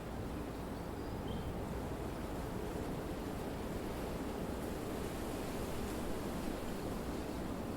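Steady wind blowing through trees, an even rushing noise.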